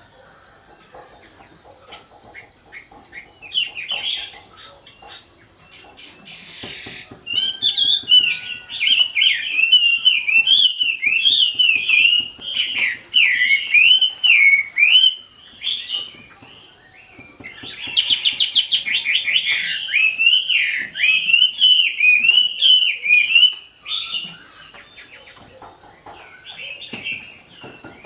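A wambi songbird singing in long runs of rapid, warbling chirps, in two extended bursts with short pauses between, over a steady high-pitched hiss or insect drone.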